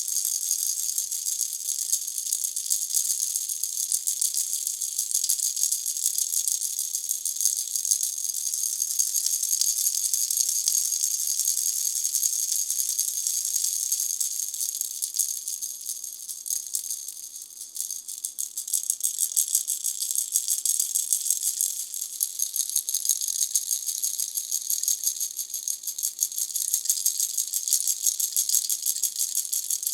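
Pineapple-shaped baby rattle shaken continuously, a dense, fast, bright rattle of small beads inside. It eases off briefly about halfway through, then picks up again.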